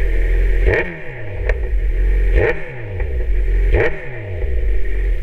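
Kawasaki Z900 inline-four revved through an Arrow exhaust with its dB killer removed: three quick throttle blips, each rising sharply and then falling back.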